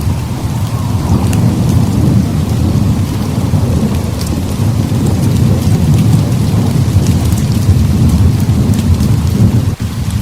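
Heavy rain pouring steadily over a continuous low rolling rumble of thunder. Faint scattered ticks ride on top, and the sound briefly dips near the end.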